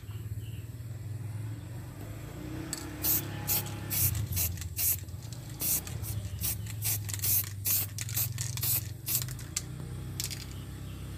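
Quick scraping strokes, roughly two a second for several seconds, over a steady low hum: hand work on the finished knife.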